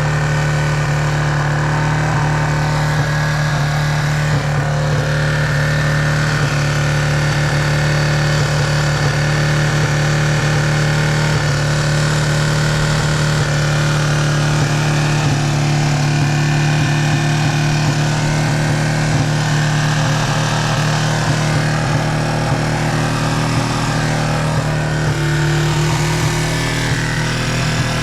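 Yamaha TTR225's air-cooled single-cylinder four-stroke engine idling steadily as it warms up after a cold start.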